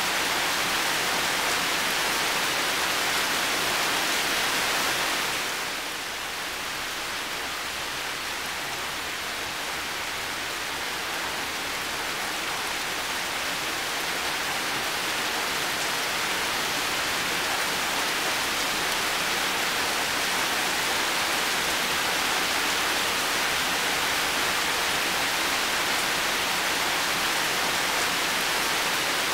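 Heavy rain falling as a steady, even hiss. It drops a little in level about five seconds in, then slowly builds back to full strength.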